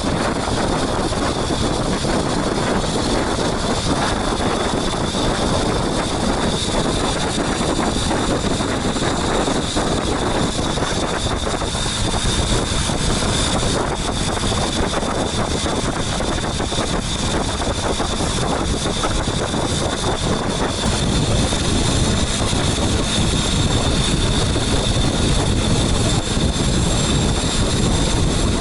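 Boat engine running steadily at cruising speed, a loud continuous drone with a steady high whine.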